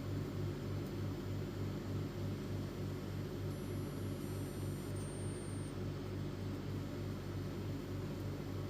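Epson L310 inkjet printer running its head-cleaning cycle: a low, steady motor hum with a regular pulse of about three to four beats a second.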